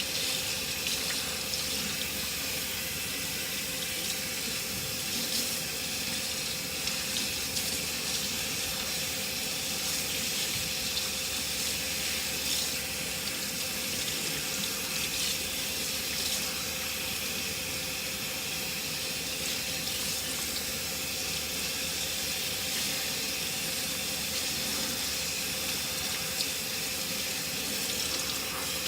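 Tap water running steadily and splashing while conditioner is rinsed out of hair.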